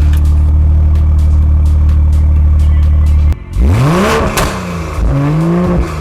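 BMW M340i's turbocharged straight-six revved twice through a valved aftermarket exhaust, each rev rising and falling in pitch. Before that, a steady low drone cuts off suddenly a little past halfway.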